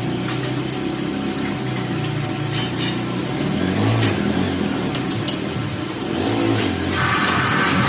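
A motor or engine running steadily, with a low hum and a few short clicks and knocks.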